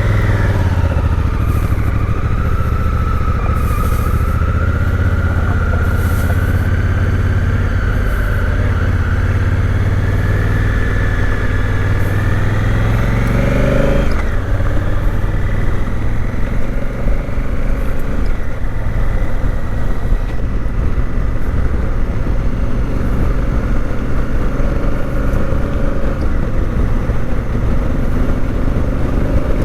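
Honda CRF1000L Africa Twin's parallel-twin engine pulling away and accelerating. Its pitch climbs steadily until a gear change drops it about halfway through, then it runs on at a steadier speed.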